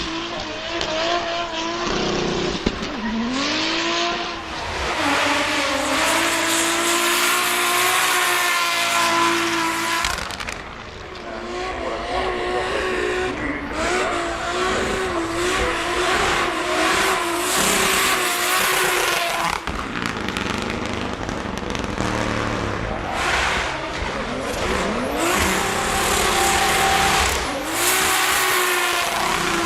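Drift cars running hard: high-revving engines rising and wavering in pitch over loud tyre screech, with the sound changing abruptly several times as one pass gives way to another.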